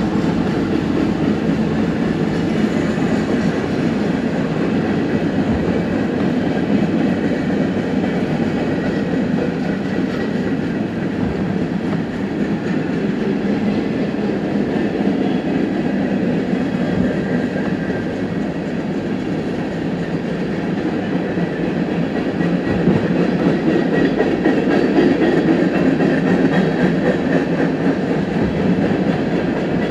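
A long train rolling past with its wheels clattering over the rail joints, a steady rolling clatter heard from inside a car.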